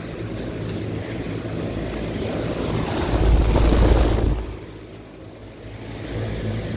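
Steady hum of outdoor air-conditioning condensing units running, with fans and compressors going. A gust of wind builds on the microphone and rumbles loudly from about three seconds in, then drops off suddenly.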